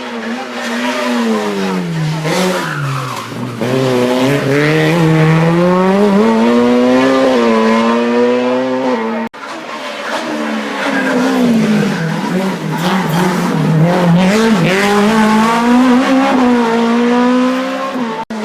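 Hill-climb race car engine at high revs, its pitch rising and falling again and again through gear changes and corners. It cuts out abruptly about halfway, then another stretch of the same kind of engine sound follows.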